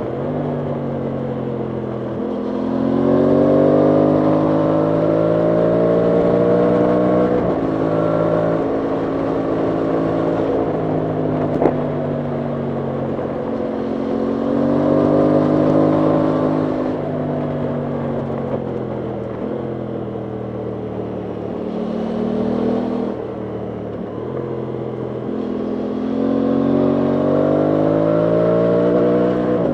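Aprilia Tuono 660 Factory's parallel-twin engine under way, its pitch climbing as it accelerates and dropping in steps at gear changes, several times over. A single sharp click sounds a little before halfway through.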